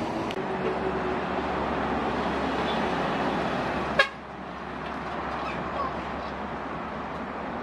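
Heavy trucks running and passing on the road, a steady engine and tyre noise, with a single sharp click about four seconds in.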